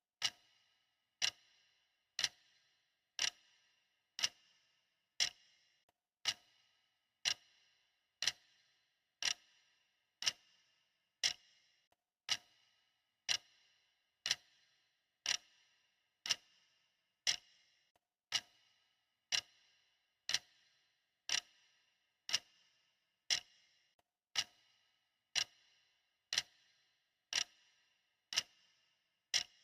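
Clock ticking steadily, about one tick a second, each a sharp click with a brief ringing tail.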